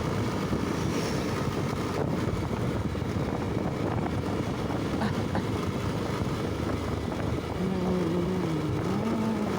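Motorcycle riding along, its engine and the road and wind noise making a steady din. About three-quarters of the way in a wavering, pitch-shifting hum comes in over it.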